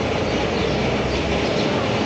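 Steady mechanical noise from running machinery, an even rushing sound with a low hum underneath.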